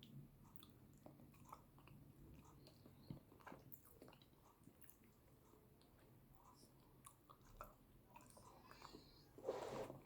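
Close-miked chewing of yam with eggplant sauce: faint, soft wet mouth clicks and smacks throughout, with a louder bite or chewing burst about nine and a half seconds in.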